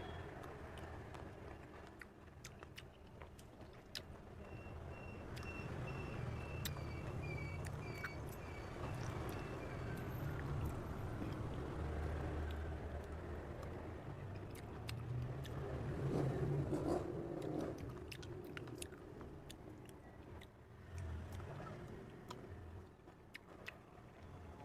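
A person chewing and biting into cherries close to the microphone, with wet mouth clicks, over a low steady rumble of road traffic.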